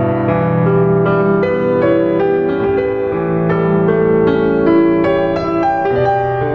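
Background piano music: a slow piece of sustained, overlapping chords and melody notes.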